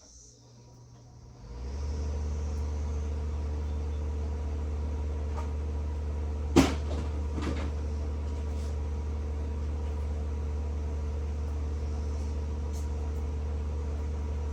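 Exhaust fan switched on, coming up to speed over the first two seconds and then running with a steady low hum. A single sharp knock about six and a half seconds in.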